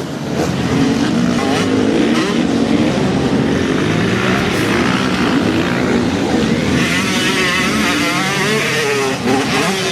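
Motocross motorcycle engines running and revving on a track, their pitch rising and falling as the bikes work the throttle.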